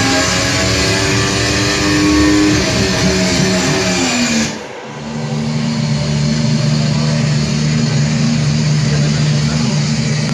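Ferrari Formula 1 engine revving, its pitch rising over the first couple of seconds and then falling. About halfway through, the sound cuts abruptly to a steadier engine drone.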